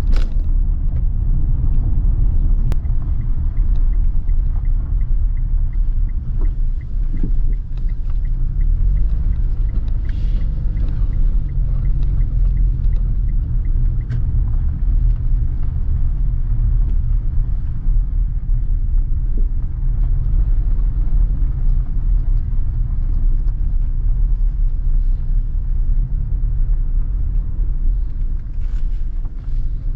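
Steady road and engine rumble heard inside a moving car. A faint, regular ticking runs along with it for about ten seconds in the first half.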